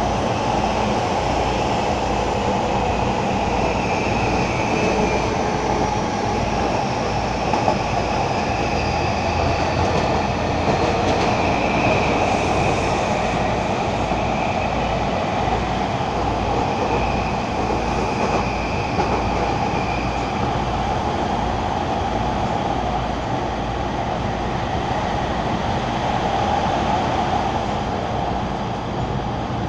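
Shonan-Shinjuku Line commuter train running at speed, heard from inside the car. Its steady running noise carries a regular low beat of wheels over the rails, and faint high tones come and go over it.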